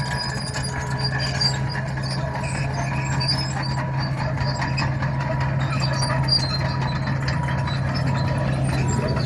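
Komatsu D61 bulldozer's diesel engine running steadily under load, with scattered small clicks and clanks over the drone as it works the road surface.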